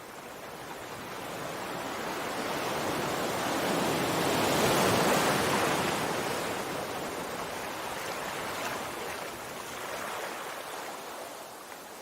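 Sea waves washing on a shore: one wave swells, peaks about five seconds in, then draws back into a steady wash.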